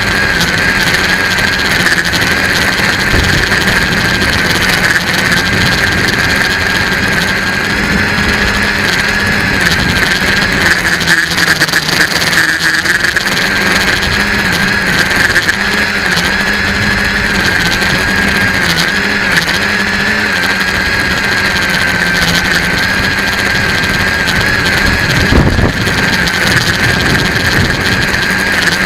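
RC tricopter's electric motors and propellers running steadily in flight, a constant whine with small wavering changes in pitch, over wind noise on the microphone.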